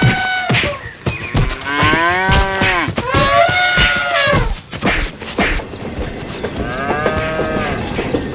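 Cattle mooing: several long calls that rise and fall in pitch, with clicks and knocks between them.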